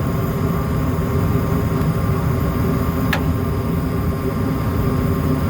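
Gas furnace running in heating mode, burners lit: a steady rumble with a constant low hum, and a single sharp click about three seconds in.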